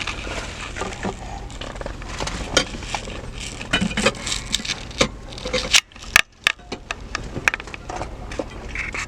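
Rummaging through belongings inside a car: scattered clicks, knocks and rustling as things are moved and handled, with a brief quiet gap about six seconds in.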